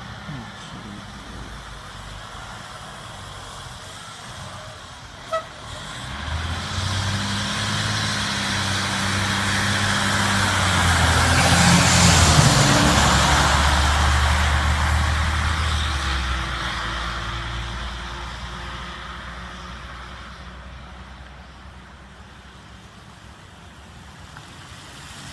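Heavy fire rescue truck driving past: its diesel engine and tyre noise swell, peak about halfway through, then fade away. A short sharp blip comes about five seconds in.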